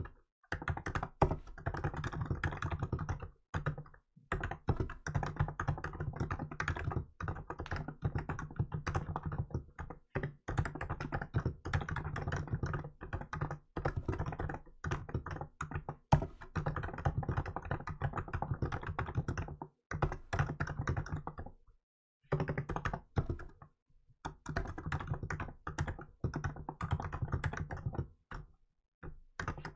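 Typing on a Hansung GK868B electro-capacitive (Topre-style) keyboard with milk keycaps: fast, continuous runs of keystrokes broken by a few short pauses, with an occasional louder stroke.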